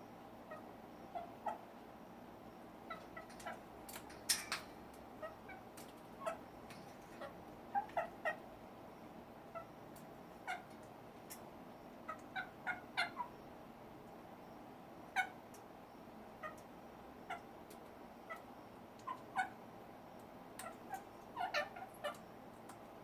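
African grey parrot making short, irregular whimpering squeaks while eating, sometimes two or three close together, with a few sharp clicks among them.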